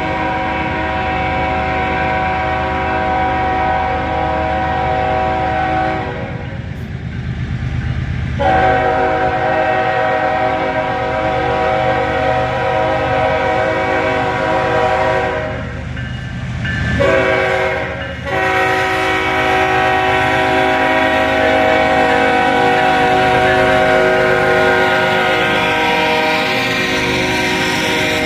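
Ferromex diesel freight locomotive's multi-note air horn sounding the grade-crossing signal: long, long, short, long. A low, steady rumble of engine and rolling train runs underneath.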